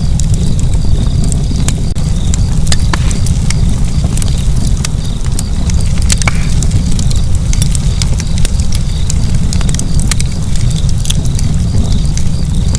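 Fire burning in a fireplace, with a steady low rumble of flames and frequent sharp crackles and pops scattered irregularly throughout.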